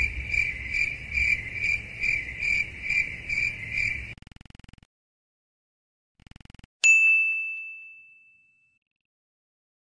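Cricket-chirping sound effect: a high pulsing trill, about two and a half chirps a second, that stops about four seconds in. About seven seconds in, a single bright bell ding rings out and fades over a second and a half.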